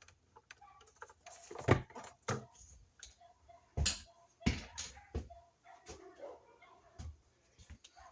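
Irregular sharp clicks and knocks of electrical wires being folded and pushed into a wall outlet box, with faint short whines between them.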